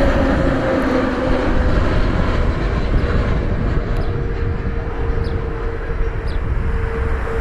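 Jet airliner's engines: a steady rumble with a faint whine that slowly falls in pitch.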